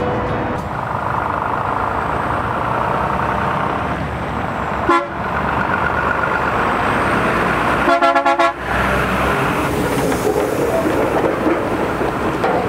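Heavy truck running amid road noise, with a short vehicle horn toot about five seconds in and a longer horn blast about eight seconds in.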